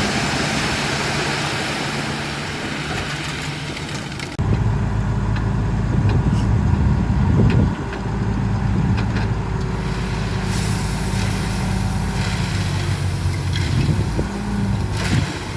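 Heavy diesel engine of earthmoving machinery running under load. About four seconds in the sound changes abruptly to a louder, deeper engine note, which swells briefly a few seconds later.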